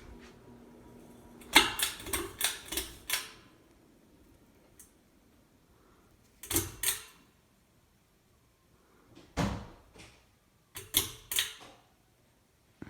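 A ceiling fan's motor hum, which stops about a second and a half in as a quick run of loud clicks and knocks begins. Three more short clusters of clicking follow, with quiet in between.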